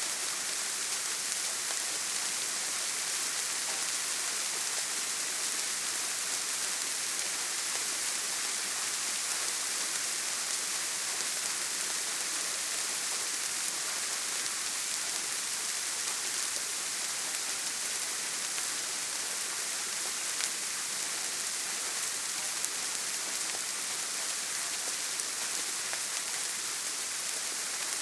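Steady heavy rain falling on a tin roof, an even hiss with a couple of sharper drop ticks about two-thirds of the way in.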